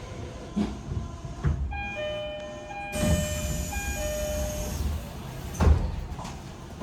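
Tokyo Metro 18000-series train's door chime, a descending two-note tone sounded twice, as the doors close with a hiss and shut with a thump near the end, over the train's low background rumble.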